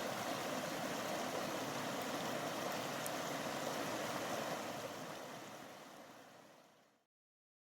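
Stream water flowing steadily, fading out about five seconds in to silence.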